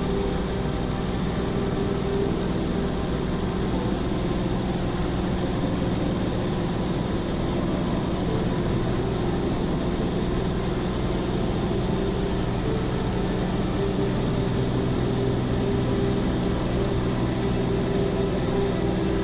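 Engine running at a steady speed: a constant drone at one unchanging pitch with several even tones above it.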